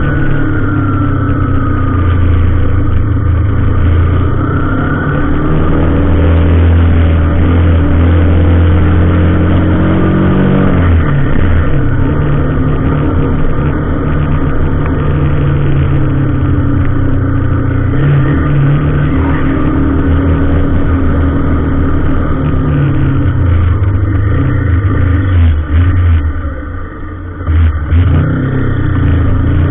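Heavy truck engine running loud under load, its pitch holding steady, then dropping about ten seconds in and rising and falling several times later, with a brief dip in level near the end.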